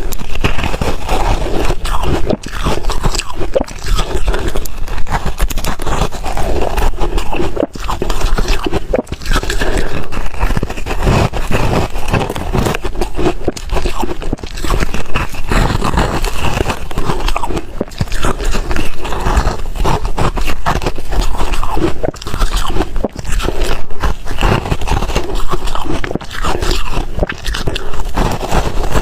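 Ice being bitten and chewed close to the microphone: a continuous run of loud, sharp crunches and grinding.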